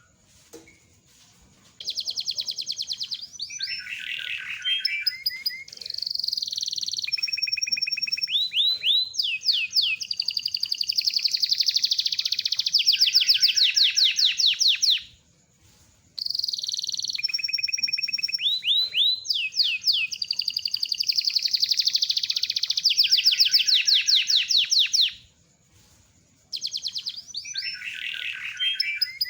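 Domestic canary of the kenari loper type singing long rolling phrases of rapid trills and buzzy rolls. The song comes in three long bursts, the first two of about ten to thirteen seconds, with brief pauses between them.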